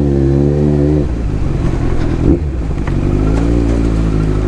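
Motorcycle engine running under the rider, its pitch rising and falling with the throttle, heard close through a helmet-mounted microphone.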